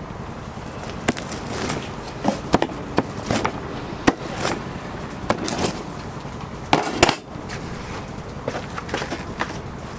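Food-preparation clatter: irregular knocks and clicks of utensils and wood being handled, the sharpest about four and seven seconds in, over a steady background hum.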